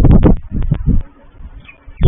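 Wind gusts buffeting the microphone: two loud rumbling bursts in the first second, with sharp clicks.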